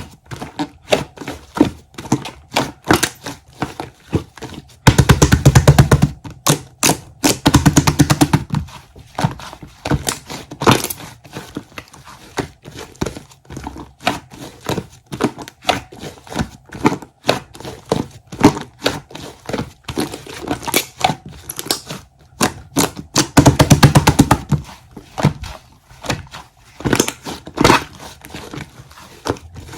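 Close-up hand-handling of a soft, sticky material: a steady run of sharp clicks and crinkling, with two loud spells of rapid crackling, about five seconds in and again about twenty-three seconds in.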